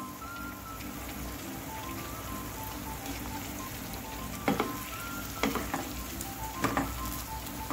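Chicken and mushrooms simmering and sizzling in their own liquid in a pan, which is being cooked down. In the second half a wooden spatula stirs them, with three sharp knocks against the pan.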